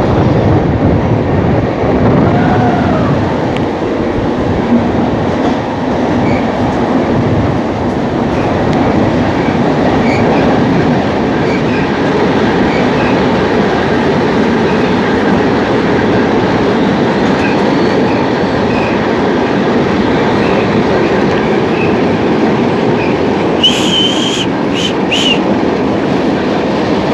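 Passenger train running through a tunnel, heard from on board: a loud, steady rumble of wheels and carriages. A few brief high-pitched squeals come near the end.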